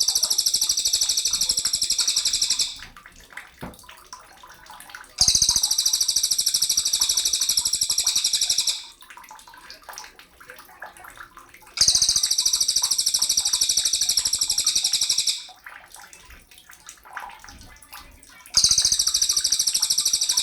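Sogon bird singing: a fast, buzzy, rattling trill delivered in bouts of about three and a half seconds, with short pauses between them, repeated about three times.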